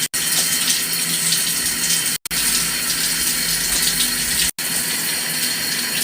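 Shower water spraying steadily. The sound cuts out for an instant three times, roughly every two seconds.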